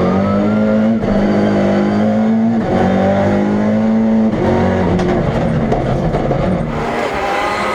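Turbocharged 1.4-litre four-cylinder engine of a Fiat Punto rally-prototype race car running hard under load. The engine note breaks and shifts pitch roughly every one and a half seconds, as through gear changes, and it is a little quieter near the end.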